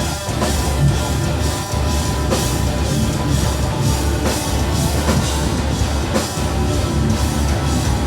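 Live metal band playing an instrumental passage: distorted electric guitars, bass and a drum kit with a steady heavy beat.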